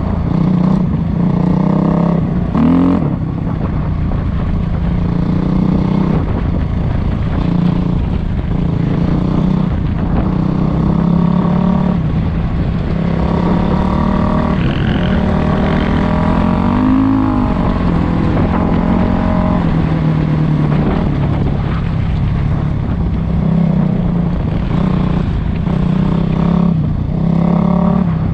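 Dirt bike engine running under load as the bike is ridden off-road. The engine note keeps climbing and dropping with the throttle, with a few brief dips where it falls away and picks up again.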